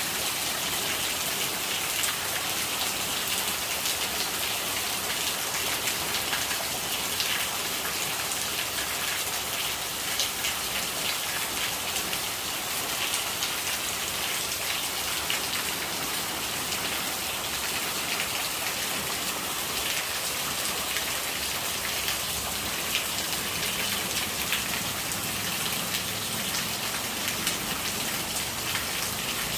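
Steady rain: a dense, even patter of drops hitting a surface. Near the end a lower gurgle of running rainwater comes in under it.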